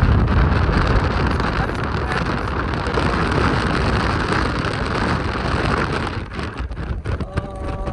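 Wind buffeting the microphone of a moving car, over the car's road and engine noise. Near the end there is a brief pitched tone.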